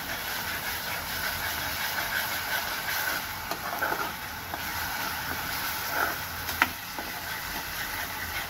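Onions and ginger-garlic paste sizzling in hot oil in a steel kadhai while a ladle stirs and scrapes the pan, with scattered light clicks and one sharp clink of the ladle against the metal about six and a half seconds in.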